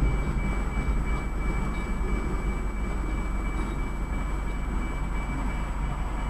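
Freight train rolling through a grade crossing, heard from inside a car: a steady low rumble that eases slightly as the last cars clear about a second or two in.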